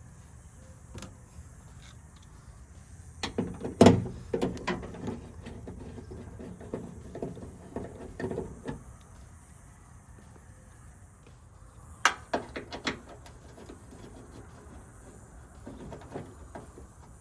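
Clusters of clicks and knocks from hand work on a pickup truck door, with the loudest knock about four seconds in and another burst of sharp clicks around twelve seconds.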